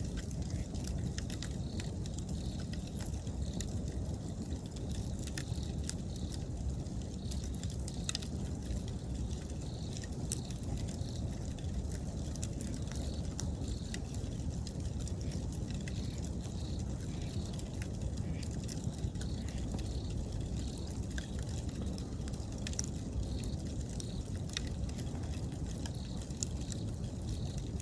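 Wood bonfire burning with scattered sharp crackles and pops over a low, steady rumble. Autumn insects chirp in a soft, even, pulsing rhythm throughout.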